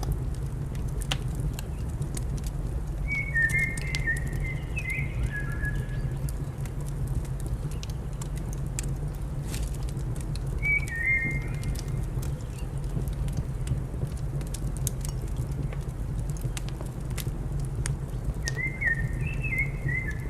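Fireplace fire crackling, with scattered sharp pops over a steady low rumble. A small bird sings three short chirping phrases, near the start, midway and at the end.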